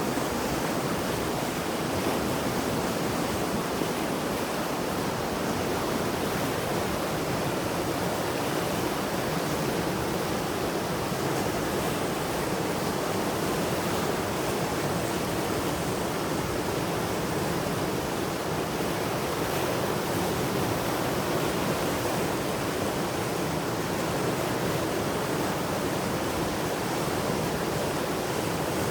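Mountain river in spate after heavy rain, fast water rushing steadily over rocks in a constant roar.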